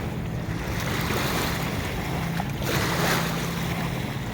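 Wind on the microphone and water washing at the shore, with a steady low hum underneath.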